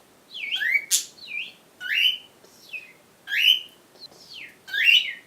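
Bird chirping: a string of short, separate calls that slide up and down in pitch, one roughly every half second.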